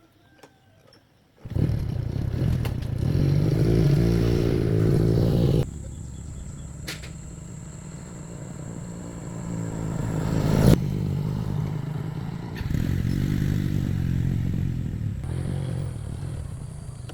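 A motorcycle engine starts about a second and a half in and runs, its level falling, swelling and rising again as it goes.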